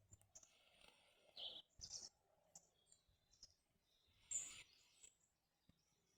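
Near silence, with a few faint clicks and brief rustles.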